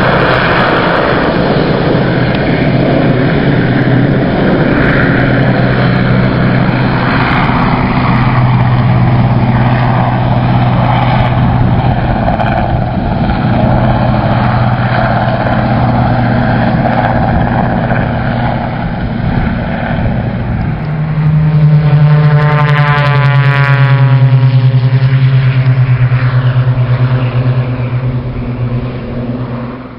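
RAF rescue helicopter running and taking off: a steady engine-and-rotor drone with a low hum. About two-thirds of the way through it grows louder and takes on a sweeping, phasing sound as it lifts away.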